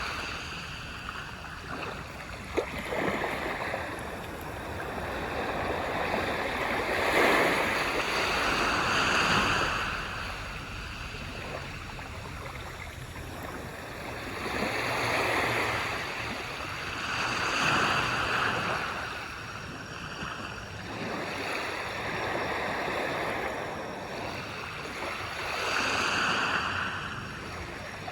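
Waves breaking and washing up a beach, the surf swelling and falling back every few seconds. There is one brief sharp click about two and a half seconds in.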